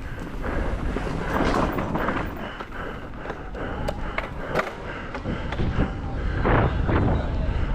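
Mountain bike riding fast down a rough trail: steady tyre rumble over dirt and rock, with frequent sharp clicks and knocks from the chain and frame.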